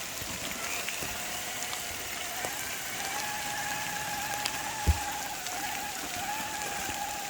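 Steady rain falling on the ground and leaves. A faint wavering whine joins in about three seconds in, and a single short thump comes about five seconds in.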